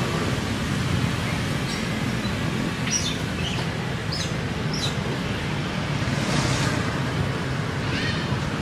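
Birds chirping, a few short high calls clustered about two to five seconds in and again near the end, over a steady low background rumble.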